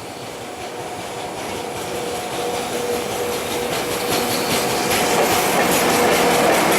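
An EF64 electric locomotive with an unpowered DE10 diesel locomotive in tow rolls closer and grows steadily louder, with a steady whine. From about four seconds in, its wheels clack over the rail joints.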